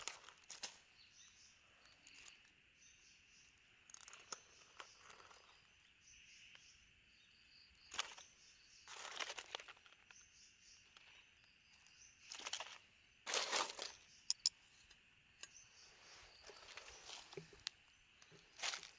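Intermittent crunching and rustling of dry vegetation, in short irregular bursts with a few sharp clicks about two-thirds of the way in, over a faint steady high-pitched hum.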